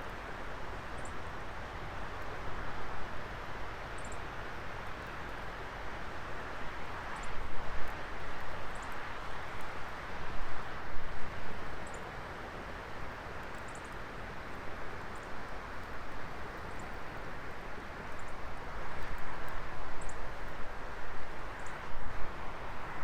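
Wood fire burning in a fire pit: a steady rushing hiss with small, sharp crackles and pops every second or two.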